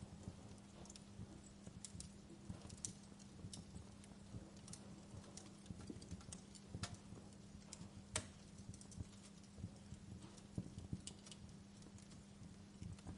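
Wood fire crackling softly, with irregular sharp pops and snaps and a couple of louder pops about seven and eight seconds in, over a steady low hum.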